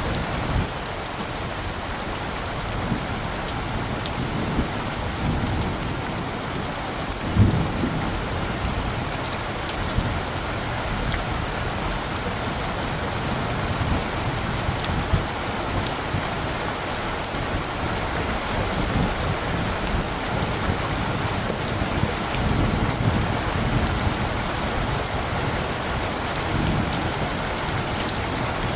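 Steady rain falling, with many sharp individual drop hits, and low rumbles of light distant thunder now and then. One brief louder low thump comes about seven seconds in.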